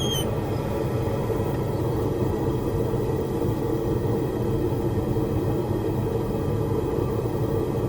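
Blacksmith's forge running steadily: a constant low rumble with no strikes or breaks.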